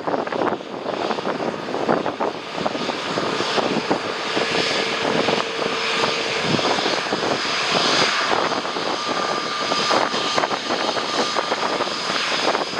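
Jet airliner's engines running as it comes in to land, a steady noise with a faint whine in it, over heavy wind buffeting the microphone.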